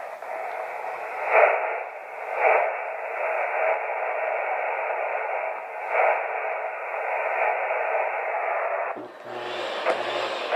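Radio receiver hiss and static, narrow and telephone-like, swelling louder a few times. About nine seconds in it gives way to a brighter, steady rushing noise with a low hum under it.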